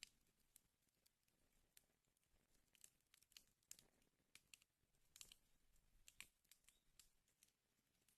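Wood fire crackling faintly in a fireplace, with irregular small pops and snaps, a few of them louder around the middle.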